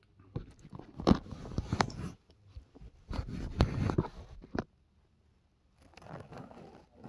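Three bursts of close crunching and scraping from a Dairy Queen Blizzard with Sour Patch Kids and Oreo pieces being dug into and eaten.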